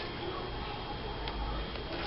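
Faint rustling of magazine paper being handled, with a few light ticks.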